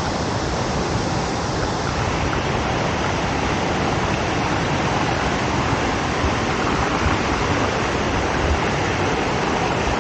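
Hogenakkal Falls on the Kaveri in heavy flow: a steady, loud rush of falling water.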